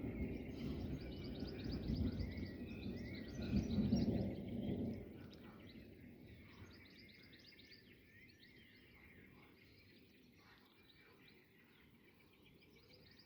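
Rolling thunder from a nearby lightning strike, a low rumble that swells twice and dies away about six seconds in, with birds chirping throughout.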